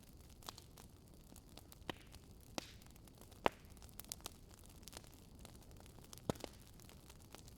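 Wood fire crackling: scattered sharp pops and snaps over a soft steady hiss, the loudest snap about halfway through.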